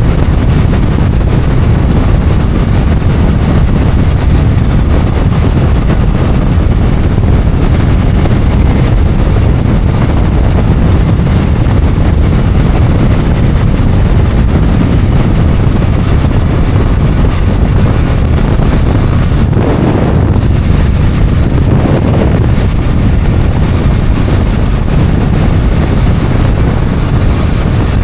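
Riding-speed wind rush over the microphone mixed with the steady drone of a BMW F800GS's parallel-twin engine. The noise swells briefly about twenty seconds in.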